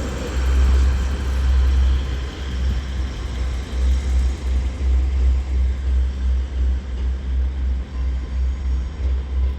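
Diesel engines of a double Northern Class 158 multiple unit pulling out of the station: a loud low rumble, steady at first, then pulsing about twice a second.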